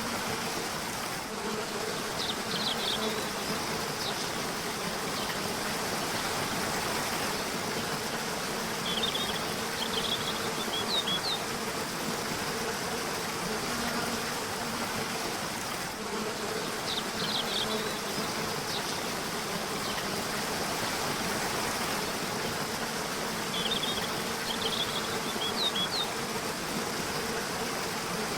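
A river rushing steadily, with short bursts of bird chirps about every seven seconds and a low buzz that swells and fades underneath.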